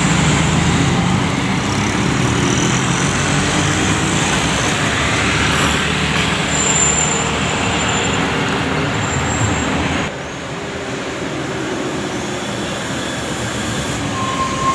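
Heavy road traffic: buses and trucks running past, with steady engine and tyre noise. The sound drops and changes suddenly about ten seconds in.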